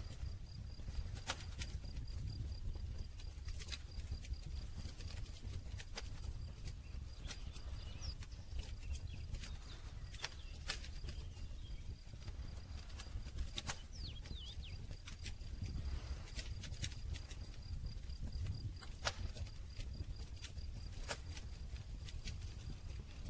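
Wood campfire crackling: sharp, irregular pops and snaps over a low steady rumble of burning.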